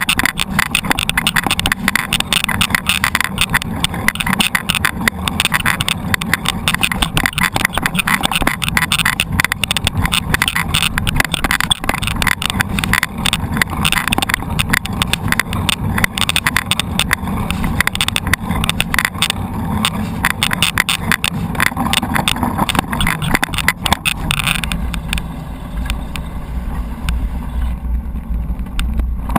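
Mountain bike ridden over rough ground, picked up by a camera mounted on the bike or rider: continuous rattling and clattering with tyre noise. About five seconds from the end the clatter eases and a low wind rumble on the microphone takes over.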